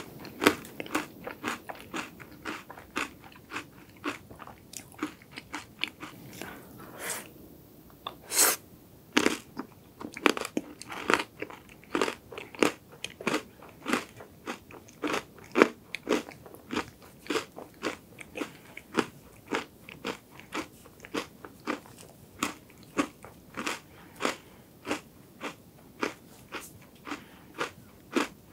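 Close-miked crunching and chewing of a chocolate-coated Loacker wafer ice cream: crisp crunches about two a second, with a few louder bites mixed in.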